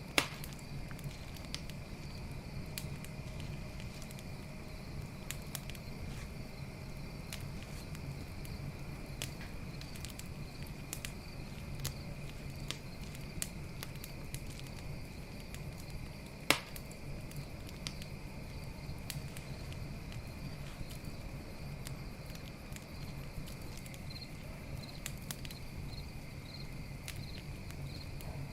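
Campfire crackling with frequent small snaps and two sharp pops, one right at the start and one about halfway through, over a low steady rumble. Crickets chirp steadily throughout in a high, pulsing trill.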